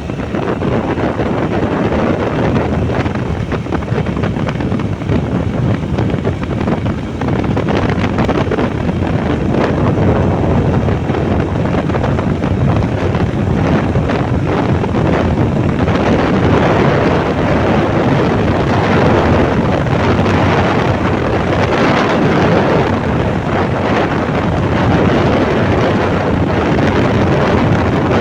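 Wind buffeting the microphone of a moving motorbike, with the bike's running and road noise underneath; a steady, loud rush throughout.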